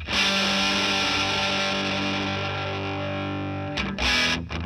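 Electric guitar chord played through a Benson Delay tape-delay pedal and amp, struck once and left ringing out slowly over about four seconds to show off the delay's modulation, with a brief louder burst near the end.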